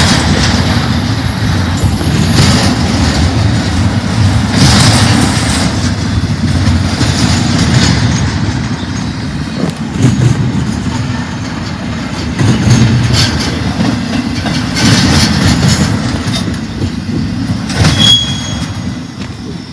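Freight train rolling past on the rails: a loud, steady low rumble with louder surges every two to three seconds, dying away near the end.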